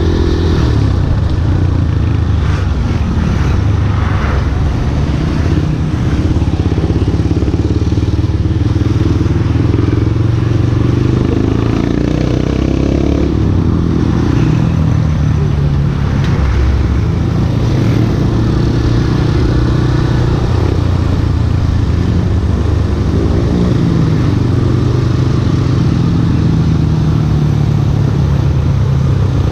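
Yamaha Scorpio Z's single-cylinder four-stroke engine running as the motorcycle is ridden, its pitch rising and falling with the throttle.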